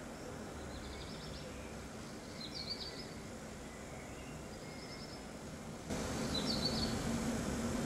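Small birds chirping, four short quick phrases of repeated notes, over quiet outdoor background noise. About six seconds in, the background suddenly gets louder and a steady low hum starts.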